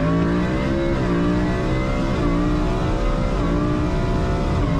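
A vehicle engine running under power, its pitch dipping briefly and recovering several times.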